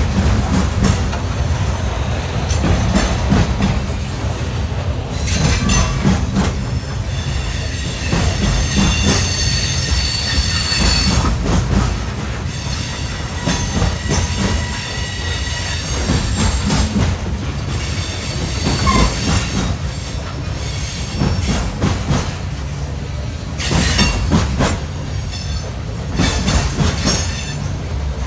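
Freight train rolling past with a steady low rumble of wheels on rail. Its wheels squeal high and shrill for several seconds starting about five seconds in, and again near the end.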